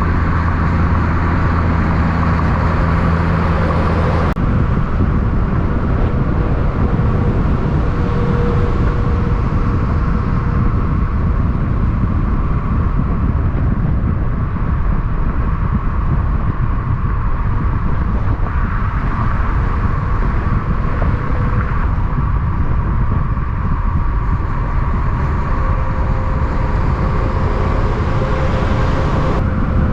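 Steady road vehicle noise: a continuous low rumble with a faint steady whine above it. A low droning tone cuts off abruptly about four seconds in.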